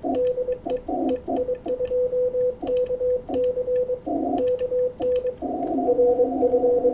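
Morse code (CW) on the 20-metre amateur band from a radio transceiver: a steady tone of about 500 Hz keyed rapidly on and off, heard through a narrow filter with patches of band hiss that grows louder and steady about five seconds in.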